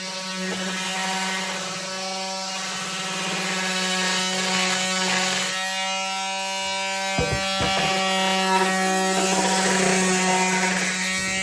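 Electric power sander running against wood: a steady motor hum under the rasp of sandpaper, with a few knocks about seven seconds in.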